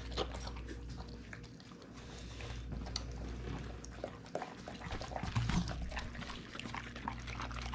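Dogs eating steamed salmon heads and tails, with irregular small clicks and crunches of chewing.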